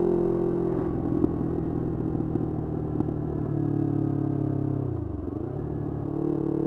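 Yamaha R25 parallel-twin engine through a Kea Speed aftermarket exhaust: the revs fall off on a closed throttle with a few sharp pops from the exhaust, hold steady at a lower note, then dip and climb again near the end.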